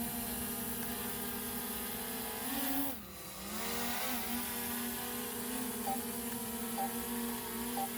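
DJI Mini 3 Pro drone's propellers buzzing steadily as it comes down to land. About three seconds in, the pitch rises briefly, then dips sharply and recovers as the motors change speed.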